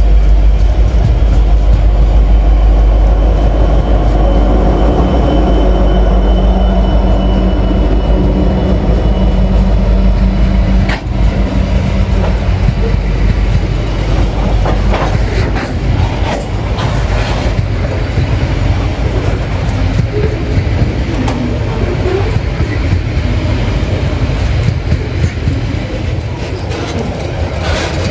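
A diesel-hauled freight train passing close by. For the first ten seconds or so the locomotives run with a deep engine rumble. After that the level drops and the wagons roll past, their wheels clacking over the rail joints.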